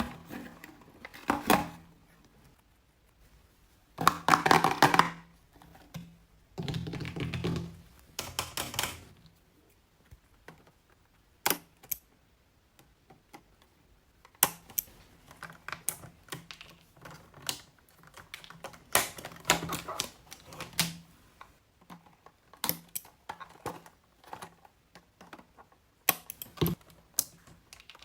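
Hands handling toy packaging: a few bursts of crinkling and rustling, then a long run of light clicks and taps.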